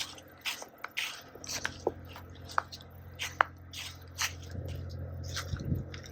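Footsteps crunching and squeaking through about an inch and a half of fresh snow, in an irregular series of sharp crunches. A steady low hum sits underneath from about a second in.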